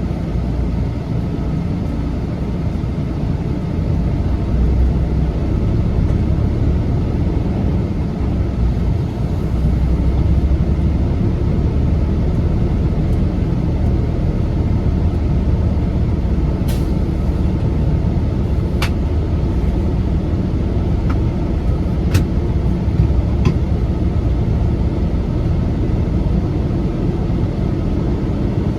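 Heavy truck running with a steady low engine and road rumble, with a few sharp clicks past the middle.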